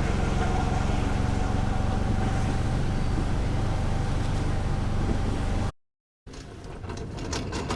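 Motor vehicle engine running steadily with a low hum. It cuts off abruptly about five and a half seconds in, and after a short silence a quieter passage of short clicks begins.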